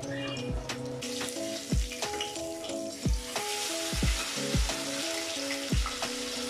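Batter-coated eggplant slices sizzling and frying in hot oil as they are turned over, the hiss growing from about a second in. Background music with a steady beat plays along.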